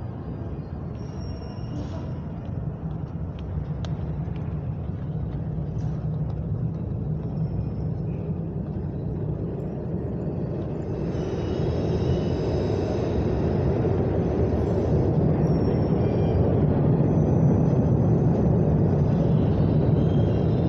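Low, steady rumble of a train in the station, growing louder about halfway through, with faint high whines now and then.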